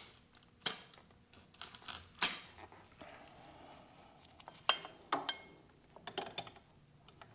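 Small metal tool fittings clinking against each other and against metal, as they are picked out and fitted: a series of short sharp metallic clinks in small clusters, the loudest about two seconds in.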